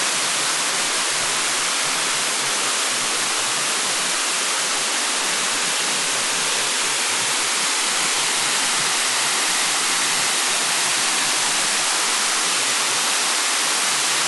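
River and waterfall rushing steadily, an even hiss of water with no breaks.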